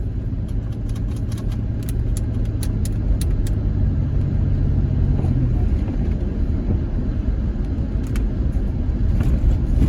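Strong blizzard wind buffeting a van, a heavy low rumble with scattered sharp ticks. A steady low hum under it fades out about halfway through.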